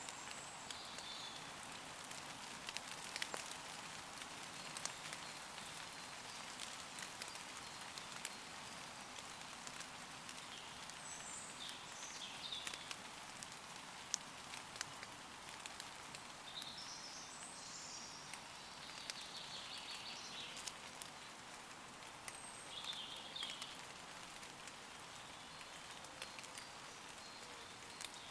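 Gentle rain falling on leaves: a steady hiss with many single drops ticking. Distant woodland birds sing short high phrases several times through it.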